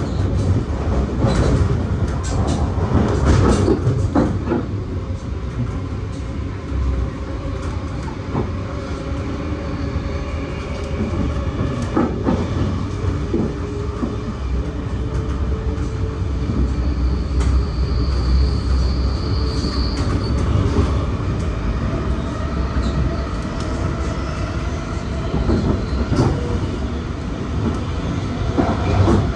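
V set intercity electric train running along the line at speed, its wheels rumbling on the rails, heard from outside the carriage window. Sharp clacks over rail joints come in a cluster in the first few seconds and again later, and a thin high squeal sounds for a couple of seconds past the middle.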